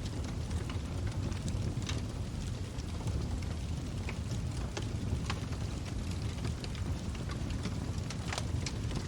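Log fire burning: a steady low rumble of the flames under frequent, irregular sharp crackles and pops from the wood.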